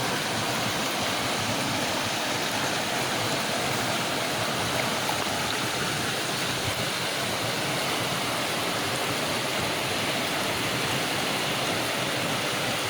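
River water rushing steadily over a stony bed.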